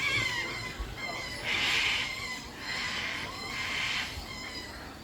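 Three harsh, screechy animal calls, each about half a second long, about a second apart.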